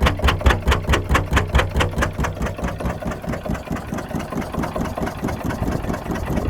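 Deutz stationary diesel engine running, with a regular beat of about five sharp strokes a second. About two and a half seconds in, the sharp strokes soften into a smoother, more even running sound.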